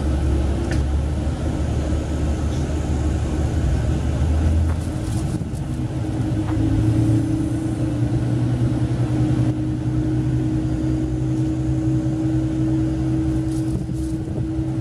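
Diesel railcar engine running under the floor of a KiHa 40 railcar while the train travels. About five seconds in, the engine's low note steps up in pitch and then holds steady.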